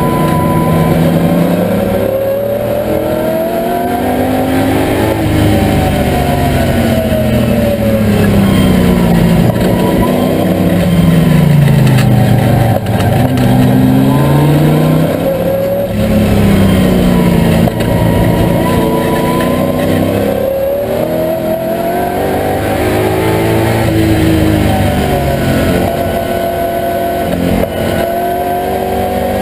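TVR Tuscan V8's Ford 289 V8 engine at racing speed, heard from inside the cabin, its pitch climbing and falling back again and again as the car accelerates along straights and slows for corners.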